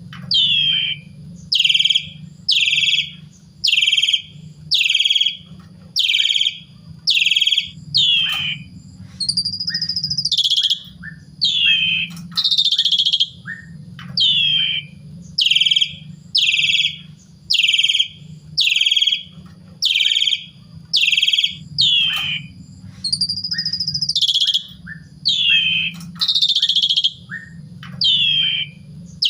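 Pied starling (jalak suren) calling loudly over and over, short falling notes about once a second, broken twice by a longer whistled note. A steady low hum runs underneath.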